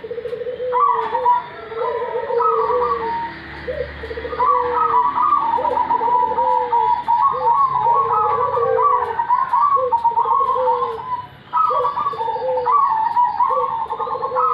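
Zebra doves (perkutut) cooing in repeated rippling phrases, two or more birds calling over and answering one another at different pitches. The calling pauses briefly about eleven seconds in, then resumes.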